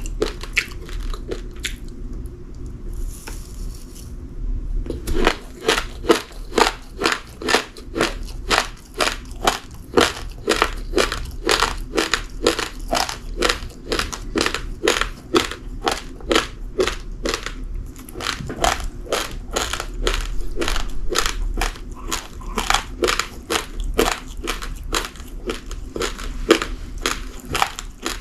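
A person chewing a mouthful of raw, uncooked rice grains: crunches at about two or three a second, pausing for a few seconds early on and then going on steadily.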